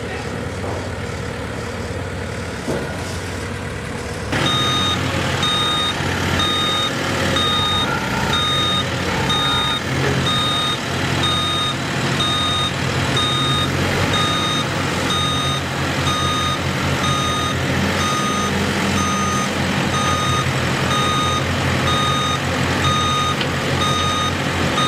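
Backup alarm of a construction vehicle beeping about once a second over its running engine, starting about four seconds in as the machine gets louder.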